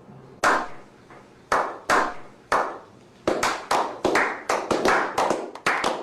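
Hand claps keeping a beat: spaced at first, then quickening about halfway to roughly three claps a second.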